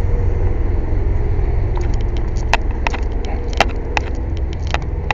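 An engine running steadily with a low rumble, with scattered sharp clicks and taps starting about two seconds in.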